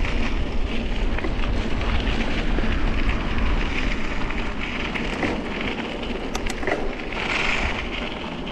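Wind buffeting the microphone while riding a bicycle: a fluttering low rumble under a steady rushing hiss, with a few light clicks about six and a half seconds in.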